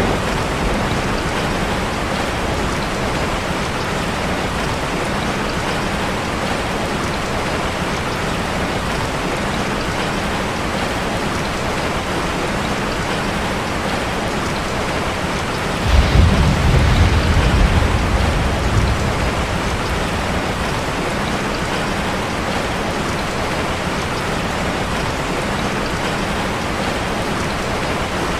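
Rain falling steadily on a metal roof. A little past halfway a low rumble of thunder starts suddenly and dies away over about three seconds.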